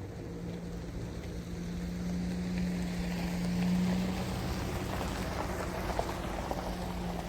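Motor vehicle running, a steady engine hum under a rushing noise that swells and then eases off a little.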